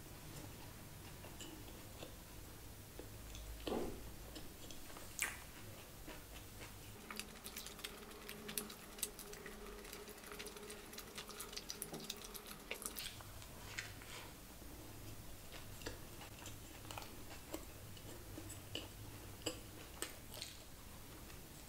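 Close-miked chewing and biting of a crispy chicken burger: soft wet mouth clicks and smacks, with a faint steady hum through the middle stretch.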